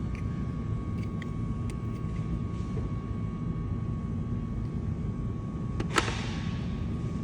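A steady low rumble runs throughout. Over it are a few small clicks of plastic mirror-housing parts being handled, and one sharper click about six seconds in.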